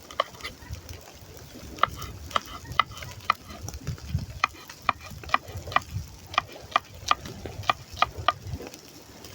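A metal teaspoon stirring in a tea glass, clinking against its side over and over with a short bright ring, about two clinks a second after a pause near the start.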